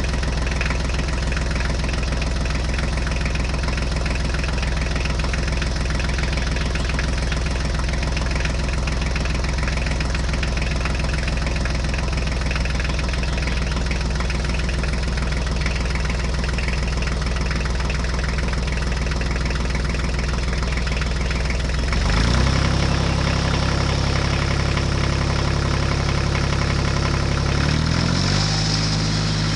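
Tractor engine idling steadily. About 22 seconds in its pitch changes and it gets slightly louder, and it shifts again near the end.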